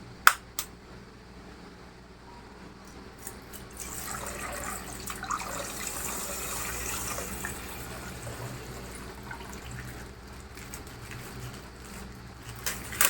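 Coloured water pouring and splashing out of a popped plastic ice-pack bag. The pour builds from about four seconds in and tails off, with a couple of light clicks at the start and a sharp click near the end.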